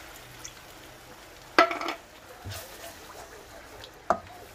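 Sambal chilli paste frying in a wok, stirred with a wooden spatula, with two sharp clanks that ring briefly: the loudest about one and a half seconds in, another near the end.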